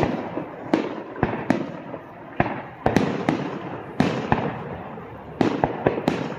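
Aerial fireworks shells bursting in quick succession: a dozen or so sharp bangs at uneven intervals, each trailing off in an echo.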